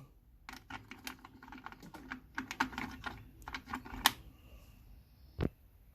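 A quick, irregular run of light clicks and taps for about three and a half seconds, then a pause and one sharper knock near the end.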